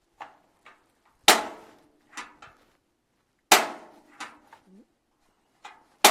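Piezo igniter of a thermomate propane heater snapping, three loud sharp clicks about two seconds apart with fainter knob clicks between them, as the control knob is worked to light the pilot.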